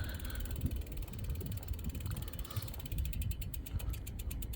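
Bicycle freewheel ratchet ticking rapidly as the bike coasts, clearest about three seconds in, over a low rumble of the ride.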